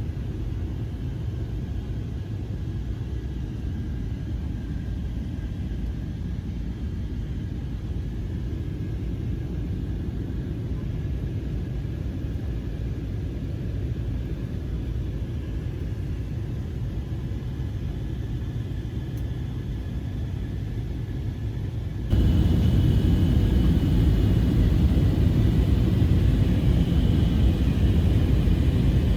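Steady low rumble of a vehicle in motion. About 22 seconds in it cuts abruptly to a louder rumble of the same kind.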